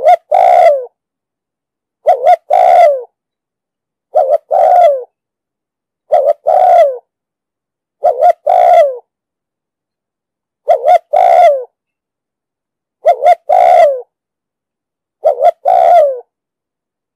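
Spotted dove cooing its territorial song over and over, about one call every two seconds, eight in all; each call is a short note followed by a longer, falling coo.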